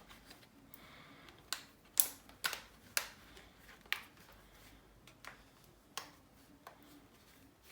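A string of sharp plastic clicks and taps, about eight spread unevenly over several seconds, as a Galaxy Note 3 is snapped into its extended battery case.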